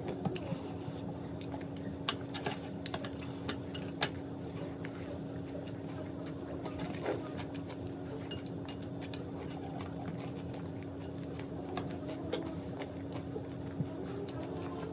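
Close-up eating sounds: chewing of puffed rice (muri) and snacks, with many short sharp clicks scattered through, over a steady low hum.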